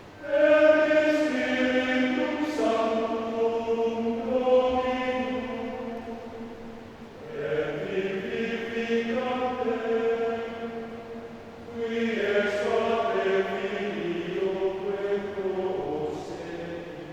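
Men's choir singing sustained chords in three long phrases, each swelling in and fading before the next.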